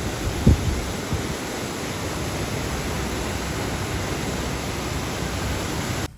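Steady rush of a swollen, fast-flowing river in spate after heavy rain, with a low thump on the microphone about half a second in. The sound cuts off suddenly near the end.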